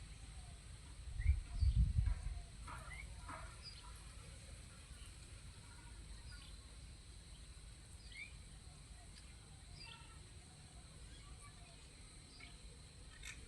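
Wild birds chirping in short scattered calls, with a low rumble of wind buffeting the microphone about a second in.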